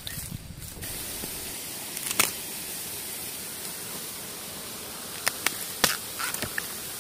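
A steady high hiss with a few sharp snaps and cracks: one about two seconds in and a cluster near the end, the sounds of bamboo shoots being pulled and snapped in a bamboo grove.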